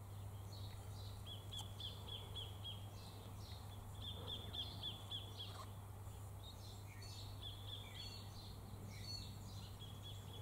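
A bird calling in repeated runs of short, high chirps, several a second, each run lasting a second or two and coming back every few seconds. Underneath is a faint steady low hum.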